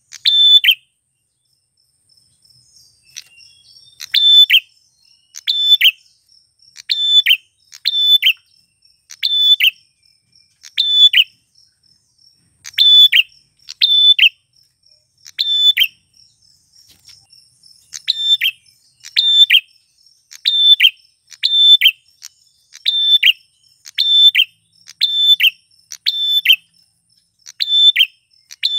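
Male prenjak klawu (a prinia) in full song: a sharp, short, high call repeated roughly once a second. The calls pause for a few seconds near the start and again about halfway through.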